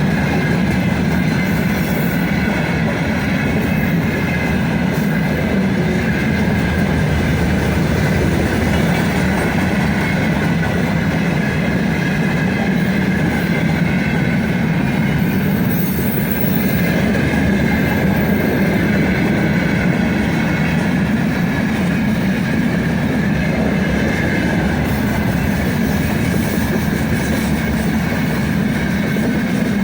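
Freight train wagons rolling past steadily: a continuous loud rumble of wheels on rail with clattering over the rail joints and a faint high wheel squeal.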